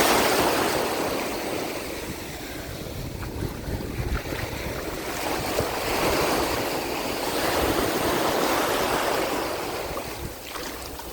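Sea waves washing onto a beach, the wash swelling at the start and again later on, with wind rumbling on the microphone.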